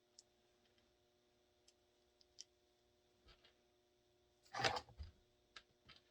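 Sparse light clicks of small holster hardware being handled during assembly, with one brief louder clatter about four and a half seconds in, over a faint steady hum.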